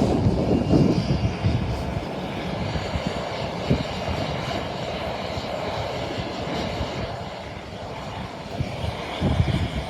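Jet airliner engines running with a steady roar, with gusts of wind buffeting the microphone in low rumbling bursts near the start and again near the end.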